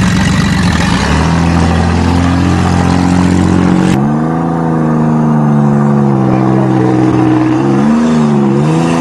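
Chevrolet Cavalier's engine running hard at high revs as the car is driven fast on gravel, with tyre and gravel noise in the first few seconds. Later the engine's pitch dips and rises several times as the throttle is worked.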